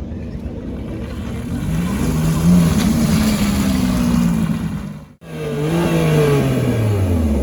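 Supercar engine revving: the engine note climbs and holds high, cuts out abruptly about five seconds in, then an engine note comes back and falls steadily in pitch.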